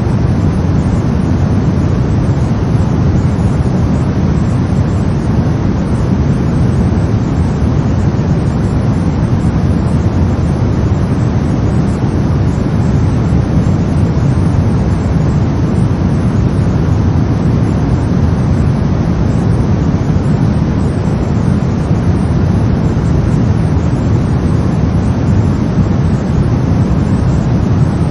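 Brown noise: a steady, deep rumbling hiss, strongest in the low end and falling away toward the highs, unchanging throughout.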